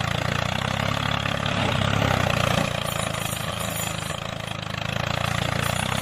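A homemade mini tractor's small motor running steadily, with a steady drone that gets a little louder around two seconds in.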